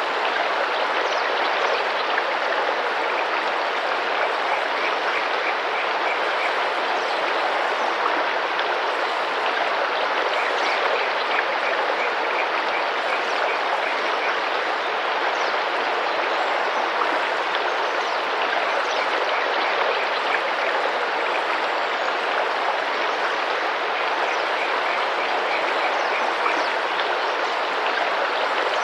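A tropical rainforest river flowing and splashing steadily over rocks, with faint high chirps now and then.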